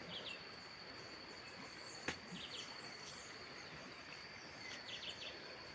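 Outdoor ambience: a steady high-pitched insect drone, with a few short clusters of chirps from birds or insects. A single sharp click about two seconds in.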